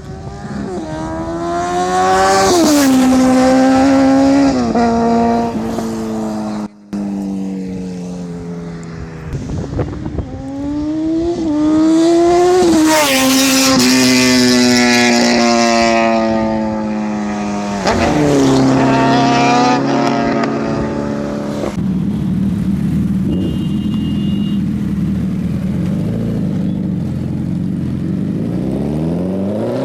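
Superbike engines with loud aftermarket exhausts being revved hard several times, each rev rising and falling back to idle. The engine settles into a steadier low idle for a few seconds, then revs up again near the end.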